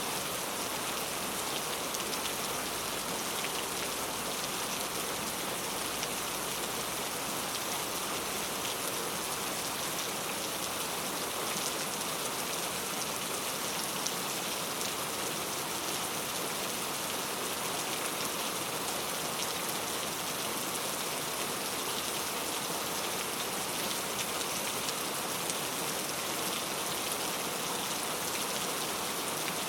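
Steady heavy rain falling, a constant hiss with many individual drops pattering on a surface.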